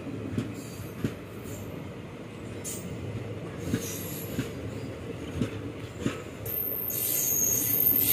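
Indian Railways passenger coaches rolling past close by: a steady rumble with repeated sharp clicks of the wheels over rail joints. About six and a half seconds in, a high-pitched wheel squeal sets in and the sound grows louder.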